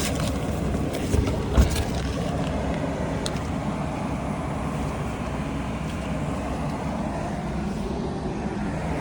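A vehicle engine running steadily, a low even rumble, with two short knocks a little over a second in.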